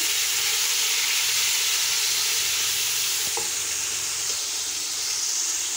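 Chopped tomatoes and onions sizzling in hot oil in a pot while being stirred with a spatula: a steady frying hiss, with a couple of light knocks a little past the middle.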